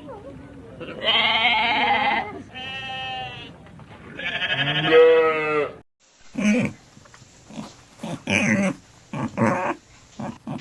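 Sheep bleating three times in long, wavering calls. About six seconds in, the sound cuts to a different recording of short, repeated animal calls.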